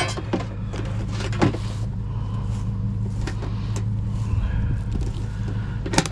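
Vehicle engine running steadily with a low hum, with a few short knocks about a second and a half in and again near the end.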